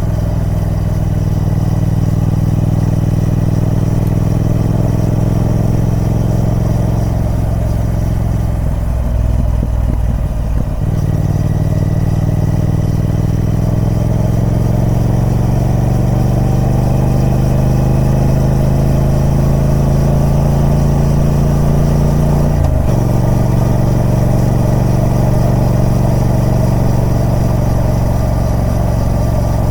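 Triumph Speed Twin 1200's parallel-twin engine running through its stock exhaust. It holds steady, changes about a third of the way in, then pulls with a slowly rising pitch for about ten seconds. About three quarters of the way through the pitch drops abruptly, then it runs steady again.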